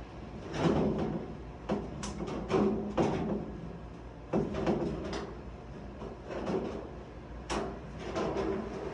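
Hand crimping pliers squeezing the end of a thin sheet-metal HVAC duct to star-crimp it, so it fits into another duct as the male end. Short metallic crunches and sharp clicks come at irregular intervals, about one a second, with brief pauses between squeezes.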